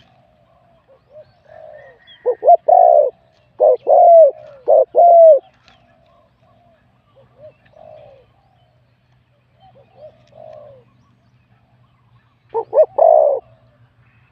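Spotted dove cooing in phrases of short, rounded notes, with loud phrases about two seconds in, around four to five seconds in, and near the end. Fainter cooing from other doves comes between them.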